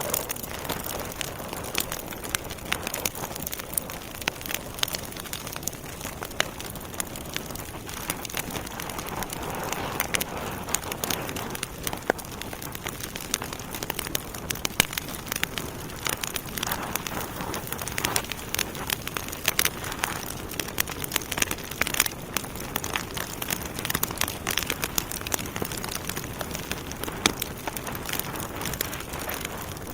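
Wood fire burning in a fireplace: a steady soft hiss with frequent irregular sharp crackles and pops from the burning logs.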